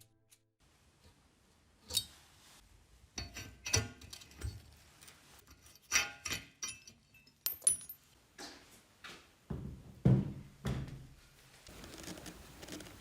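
Metal parts and tools being handled: a scattered series of knocks and clinks, some ringing briefly, with a few heavier thuds about ten seconds in.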